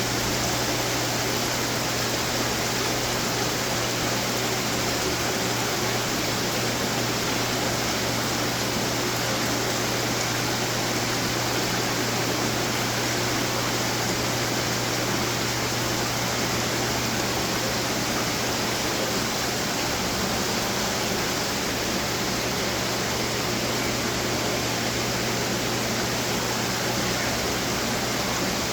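Steady rush of splashing water from many running fountains, with a low steady hum underneath.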